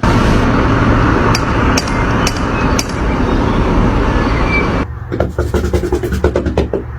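A steady, loud, rumbling noise with a few sharp clicks. About five seconds in, it gives way to a quick run of light knocks, a cat tapping at a door.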